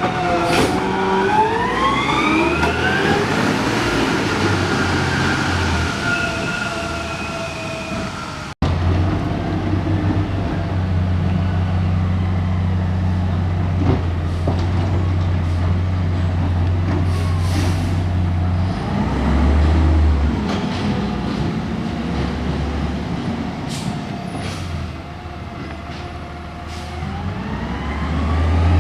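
Garbage truck diesel engine running and accelerating, its pitch rising through the gears early on, then a steady low engine drone after an abrupt cut, with a few sharp clanks and another rise in engine pitch near the end.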